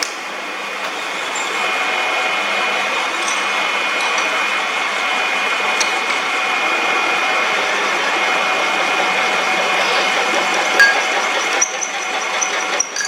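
Metal lathe running, a steady machine whine with a few small clicks.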